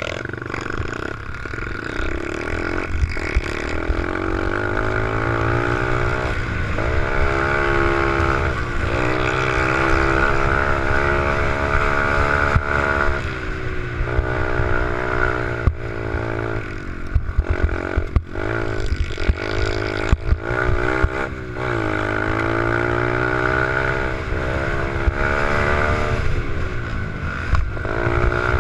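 Small four-stroke 88cc pit bike engine being ridden hard, its pitch climbing as it revs out and then dropping sharply several times as the throttle is eased or it shifts, over a low rumble of wind on the microphone.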